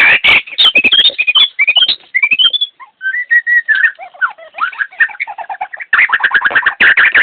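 Songbird singing a fast, varied song: rapid chattering trills alternate with clear whistled notes that rise and fall, with a brief pause about three seconds in and a burst of dense chattering near the end.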